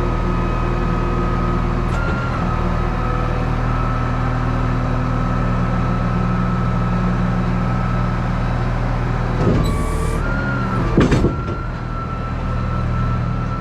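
Tow truck running steadily with a constant high whine over its engine drone; about ten seconds in comes a short hiss and a clunk, with a brief wobble in the whine.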